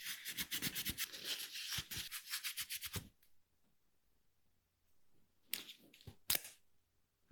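Rapid back-and-forth rubbing strokes for about three seconds, then two short scrapes near the end.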